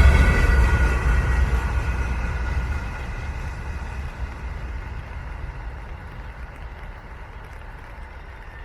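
Short freight train behind an M62UK diesel locomotive rolling away, its low rumble fading steadily.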